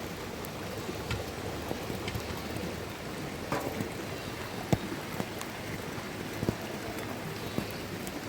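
Steady rain falling, with scattered sharp taps of drops landing.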